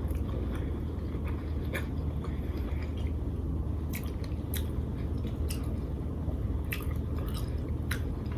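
Close-up eating sounds: a person chewing lobster tail in butter sauce, with irregular wet smacks and clicks of the mouth, over a steady low hum.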